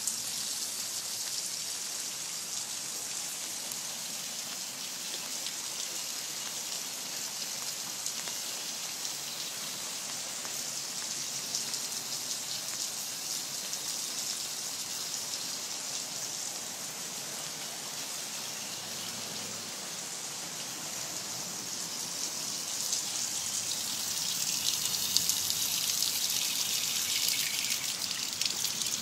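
Steady rain falling, a dense hiss of many small drop impacts. It gets heavier and louder about three-quarters of the way through.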